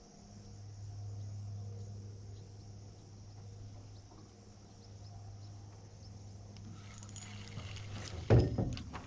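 A steady low hum and a faint high insect drone. About seven seconds in, rustling handling noise rises, and a sharp loud knock follows near the end with a few clicks after it, the sound of rod and reel being worked as a fish strikes.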